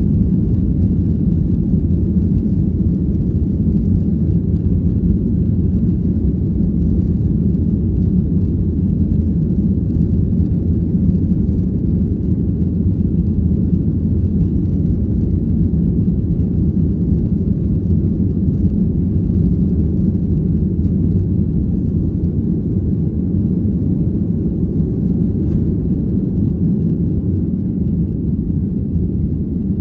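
Steady low rumble inside the passenger cabin of a Boeing 737-800, heard from a window seat: engine and airframe noise holding at an even level, with no rise or fall.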